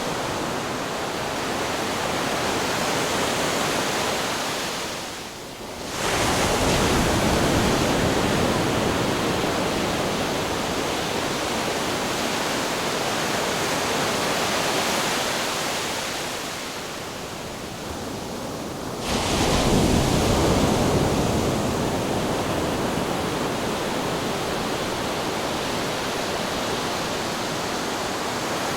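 Continuous rush of ocean surf and wind, a steady dense hiss that eases off twice and surges back abruptly, about six seconds in and again about nineteen seconds in.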